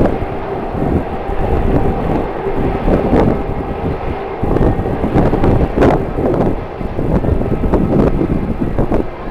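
Strong gusty wind buffeting the microphone, over the steady drone of a jet airliner's engines.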